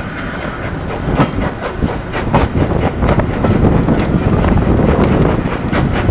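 Heritage railway carriage running along the track, its wheels clicking and clattering irregularly over the rail joints, with a steady rumble and the rush of air heard from an open carriage window.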